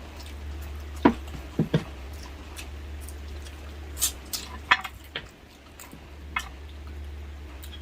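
Close-miked eating sounds: scattered sharp wet clicks and smacks from chewing and handling food, with a steady low hum underneath.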